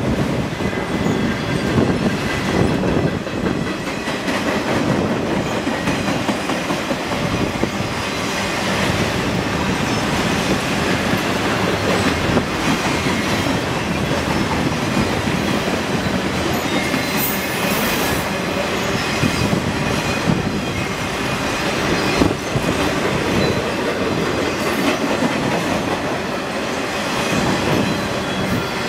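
Freight train of autorack cars rolling past on steel rails: a steady rumble of wheels with rail-joint clatter.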